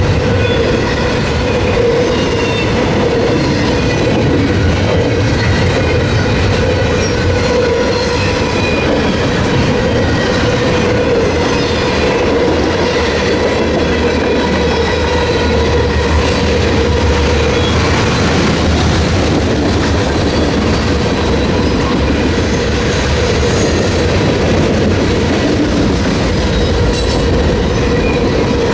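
Freight train rolling steadily past, the cars' wheels running over the rails in a loud, continuous clatter with a faint steady squeal.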